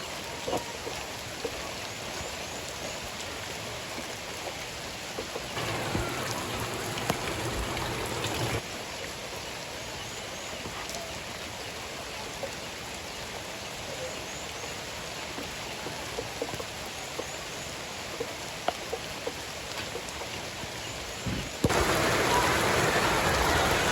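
Heavy rain falling steadily, with scattered drops ticking close by. It suddenly grows louder for a few seconds about a quarter of the way in, and again near the end.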